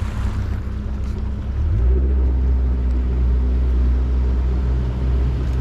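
Boat outboard motor running underway; about two seconds in its note changes and grows louder as the throttle is opened.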